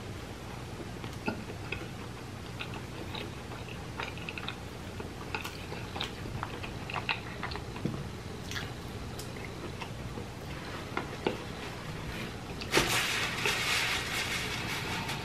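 Close-miked chewing and biting of a breaded nugget, with short wet mouth clicks scattered throughout. Near the end a louder rush of noise comes in and lasts a couple of seconds.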